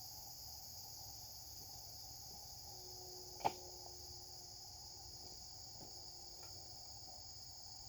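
A steady, high insect chorus of crickets or similar singing insects, with one sharp click about three and a half seconds in.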